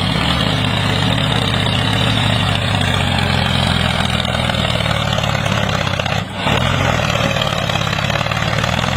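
A vehicle engine running steadily at a low, even pitch, with a brief dip about six seconds in.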